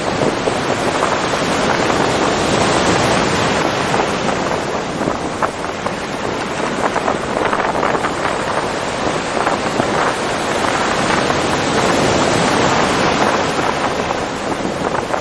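Ocean surf: a steady wash of breaking waves with a fizzing crackle, swelling a little about three seconds in and again near the end.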